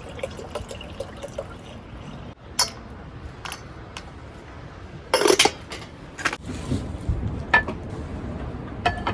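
Dishes and utensils clinking and knocking about six times, with some liquid being handled, over a steady low rumble.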